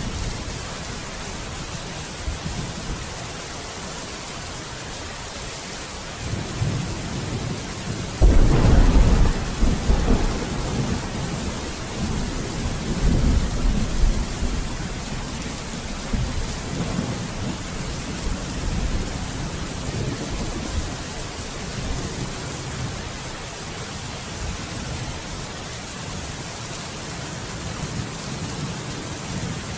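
Steady rain with thunder: a low rumble builds about six seconds in, breaks into a loud thunderclap about eight seconds in and rolls on for several seconds before fading back to the rain; another rumble begins near the end.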